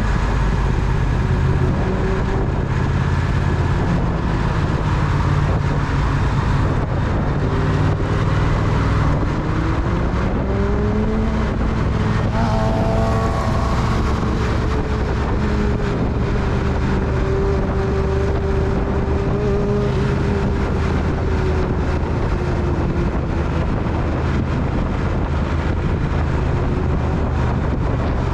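Triumph Speed Twin's parallel-twin engine running on the move, under a steady rumble of wind and road noise. About ten seconds in, an engine note climbs in pitch, then eases back down over the next ten seconds or so.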